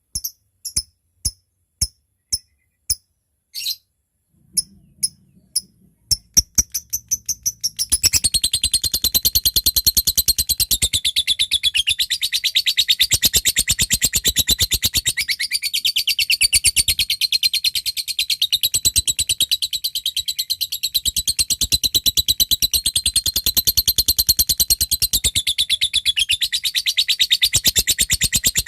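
Lovebird calling: sharp, spaced chirps that quicken, then about eight seconds in breaking into a long, fast, unbroken chattering trill, the 'ngekek panjang' song.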